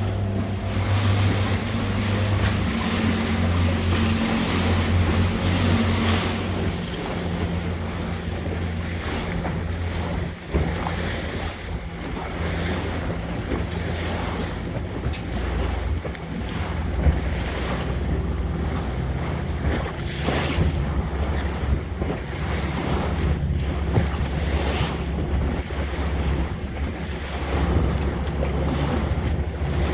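Small motorboat's engine running steadily under way, with water rushing along the hull and wind buffeting the microphone in gusts.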